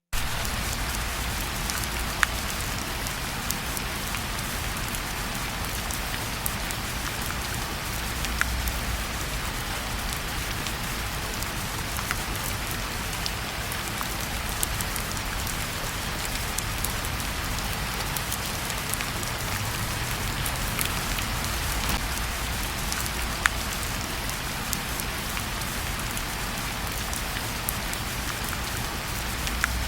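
Steady rain falling on a surface, a continuous even hiss with scattered sharp clicks now and then.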